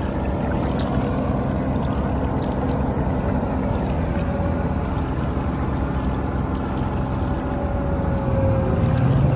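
Heavy farm diesel engine running steadily, growing slightly louder near the end.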